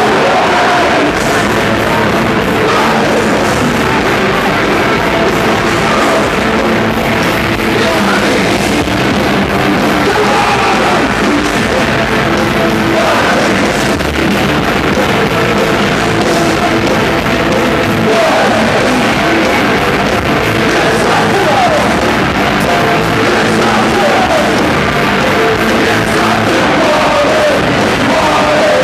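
Live hard rock band playing loudly, with distorted guitars, drums and shouted singing.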